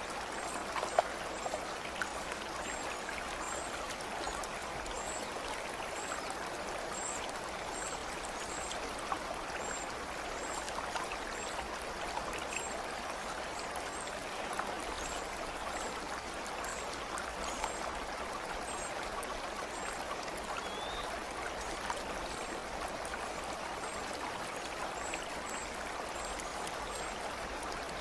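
Stream water running and babbling steadily, with small scattered drips and splashes. Faint, short high-pitched chirps repeat throughout.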